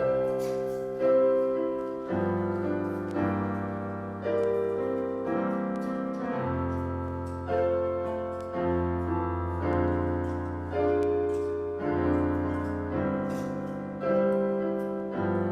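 Slow, quiet piano music: sustained chords struck about once a second, each one fading before the next.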